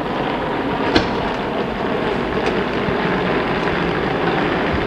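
Steady running noise of a passenger train standing at a station platform, with one sharp click about a second in.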